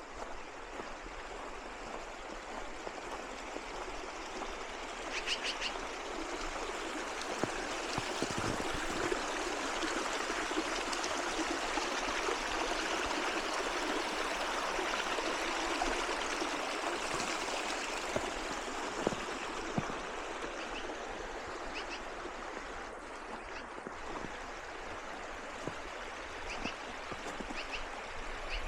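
Running water of a small stream, a steady rushing that grows louder through the middle and then fades again.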